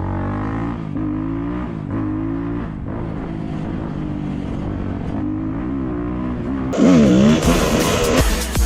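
Motorcycle engine running, its pitch climbing and dropping again and again as it is revved up and eased off. About seven seconds in, a louder, harsher sound with a fast-warbling pitch cuts in, and music starts just before the end.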